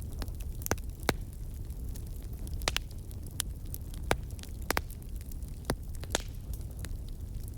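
Wood fire crackling in a fireplace: scattered sharp pops and snaps at irregular intervals over a steady low rumble of the burning fire.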